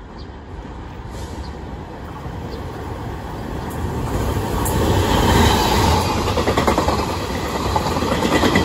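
Passenger train passing through a station at speed without stopping, growing steadily louder as it approaches and loudest from about five seconds in, with a rapid clatter of wheels over the rails.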